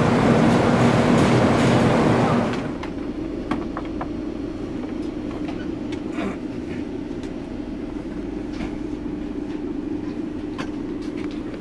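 Steady rushing noise and low hum of a stationary passenger train beside the platform. A little over two seconds in, it drops to a quieter, steady low hum inside the air-conditioned sleeper coach, with a few light clicks and knocks.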